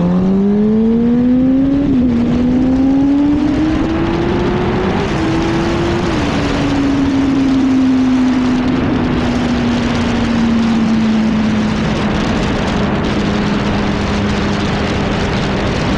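Yamaha R1 sportbike's inline-four engine accelerating hard through the gears. The pitch climbs and drops at upshifts about two seconds in and again around five to six seconds, then settles into a steady cruise under heavy wind rush.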